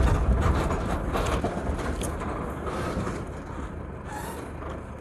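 Truck driving along a rough dirt road, heard from on top of the vehicle: a low engine-and-road rumble with frequent knocks and rattles, growing quieter toward the end.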